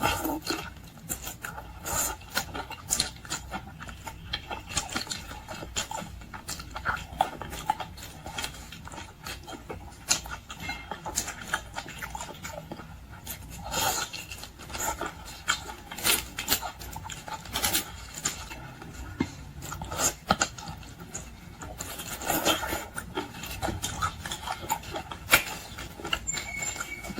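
Close-up eating sounds of boiled seafood: irregular chewing, smacking and crunching, with frequent short clicks and crackles and occasional louder ones.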